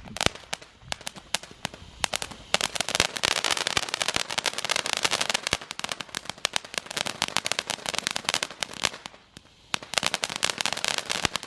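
A firework going off in a long, rapid string of sharp cracks and pops. It pauses briefly near the end, then crackles again.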